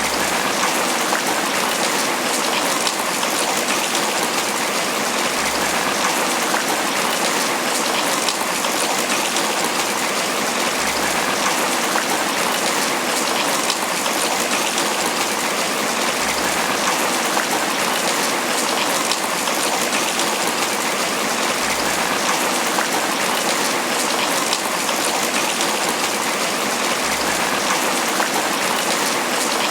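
Steady, heavy tropical rain pattering on banana leaves, a dense even hiss of drops without a break.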